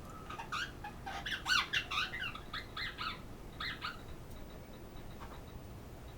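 Pet parrot making a rapid run of short squeaky chirps and whistles, thickest about one and a half to two seconds in and stopping about four seconds in.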